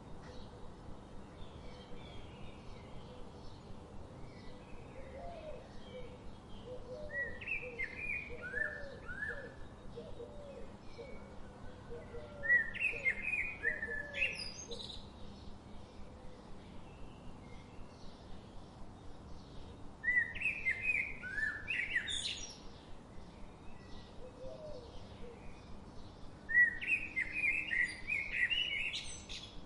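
Songbirds singing in an outdoor chorus. One bird repeats a loud, bright song phrase about every six to seven seconds, four times; several phrases end in a quick upward sweep. Softer, lower chirps come in a steady series between them.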